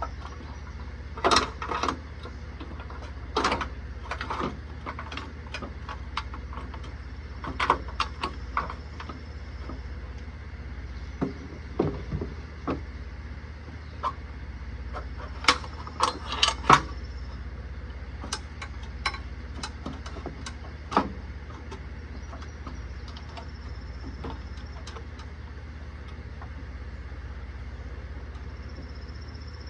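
Scattered, irregular clicks and clanks of metal parts and tools being handled while a tractor's loader control valve and its cables are worked loose and pulled out, over a steady low hum.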